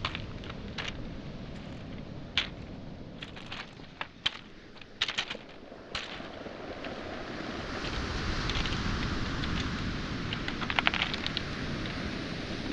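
Footsteps on a pebble beach: stones clicking and knocking together underfoot at irregular intervals. About halfway through, a wave washes in over the shingle as a swelling hiss, with a quick run of pebble clicks near the end.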